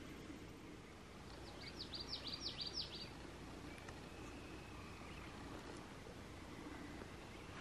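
A songbird sings one short phrase of about eight quick, high, falling notes that grow louder, over faint steady outdoor background noise.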